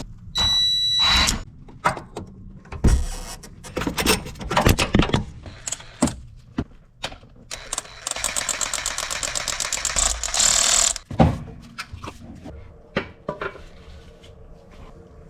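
Tool work on a car's engine mount bolts: scattered metal clicks and knocks, a brief whine about a second in, and a fast, even rattle lasting about three seconds in the middle.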